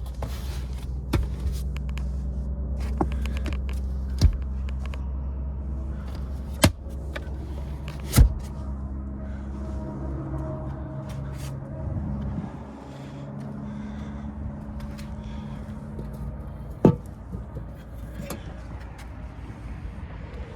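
A car engine idling with a steady low hum that shifts and drops about twelve seconds in. Several sharp knocks and clicks sound over it, the loudest about eight seconds in and about seventeen seconds in, like car doors and latches being handled.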